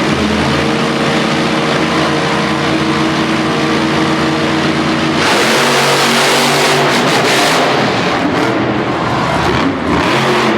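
Monster truck engines held at high revs, a steady pitched drone. About five seconds in, the engines go to full throttle and the sound becomes louder and harsher for a couple of seconds before easing off.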